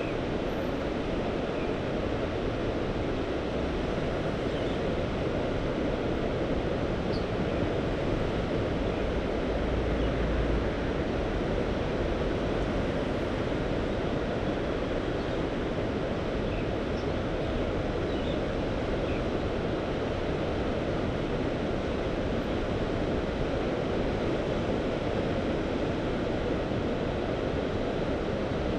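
Mediterranean sea waves washing steadily at the shore, with wind on the microphone. A short low rumble swells about ten seconds in.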